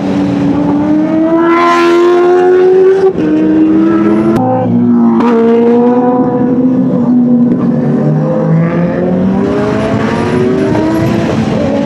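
Kawasaki inline-four sportbike engine at speed: it revs up, drops sharply twice as it shifts up, pulls again, eases off with the pitch falling for a few seconds, then revs up once more near the end. Steady wind rush underneath.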